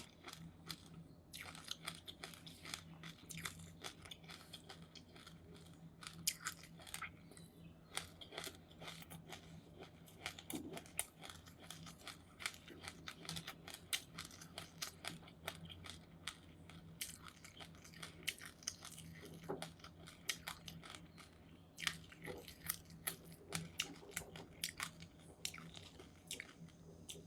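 Close-up chewing of crunchy seeds, a quick irregular run of small crackling crunches, over a faint low hum.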